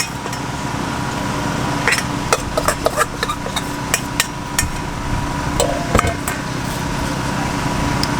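Irregular sharp knocks and clinks, like utensils or cookware being handled, over a steady low hum with a faint steady high tone.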